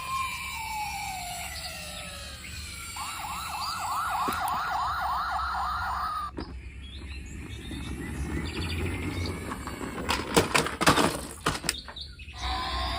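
A string of electronic siren-like sounds: a whistling tone gliding down, then a fast warbling wail for about three seconds that stops abruptly. Near the end comes a quick cluster of sharp clatters or knocks.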